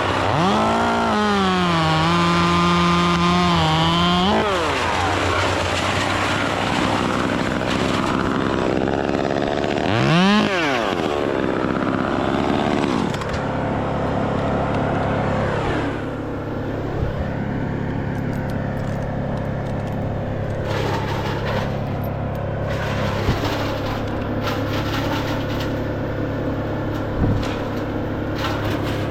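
Gas chainsaw running at high revs, its pitch dipping and recovering, then revving up sharply about ten seconds in. From about thirteen seconds a steadier, lower engine hum carries on, with a few short knocks.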